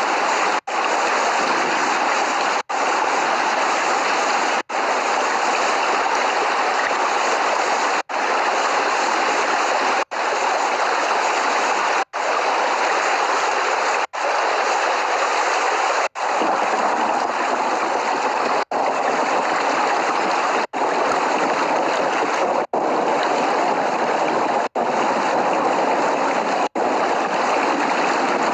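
Steady rain, an even rushing hiss of water with no thunder, broken by a brief dropout about every two seconds.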